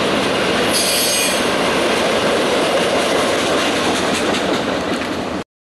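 Tank cars and boxcars of a Norfolk Southern freight train rolling past on the rails, a steady loud rumble of wheels on track with a brief high-pitched wheel squeal about a second in. The sound cuts off suddenly near the end.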